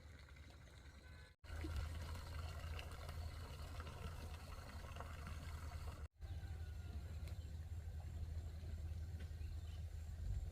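Outdoor background noise with a steady low rumble, cut off twice by brief silent dropouts, about a second and a half in and about six seconds in.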